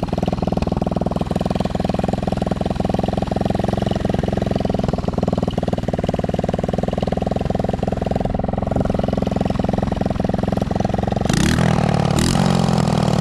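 Chinese 110cc ATV's single-cylinder four-stroke engine running steadily, then revved up about eleven seconds in before settling. The exhaust has fallen off, so the engine is running without its muffler.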